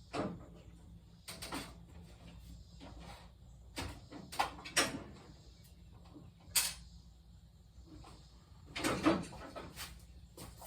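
A run of scattered knocks and clunks from hard objects being handled, about seven over ten seconds, the loudest cluster near the end.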